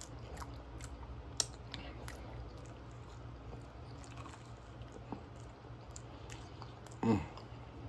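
Close-up chewing of a toasted grilled cheese sandwich with Spam, with small wet mouth clicks, over a low steady hum. A short vocal sound from the eater comes about seven seconds in.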